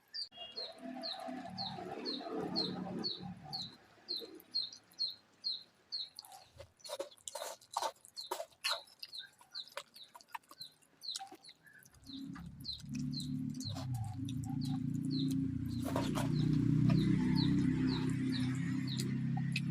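A small bird chirping over and over, about two to three short chirps a second. There is a run of crisp crunching clicks from chewing in the middle. A low droning hum comes in about twelve seconds in and gets louder.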